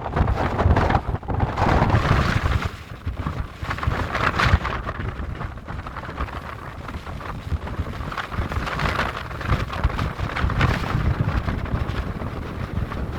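Strong gusting wind of almost 60 km/h buffeting the microphone: a low rumble with a rushing hiss that swells and eases in gusts, strongest in the first two seconds and again about four seconds in.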